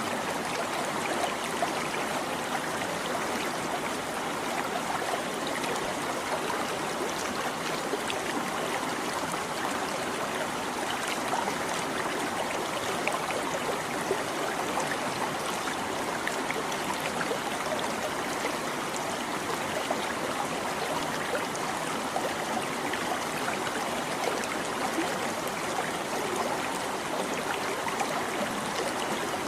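Small stream babbling steadily over rocks, water trickling and splashing without a break.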